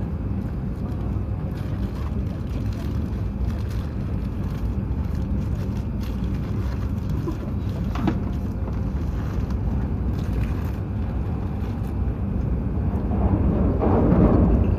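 E7/W7-series Hokuriku Shinkansen running at speed, a steady low rumble of wheels and airflow heard inside the passenger car. It swells into a louder rush near the end.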